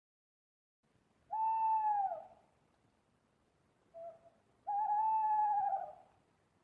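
An owl hooting: one long hoot that drops at its end, a short note, then a longer wavering hoot.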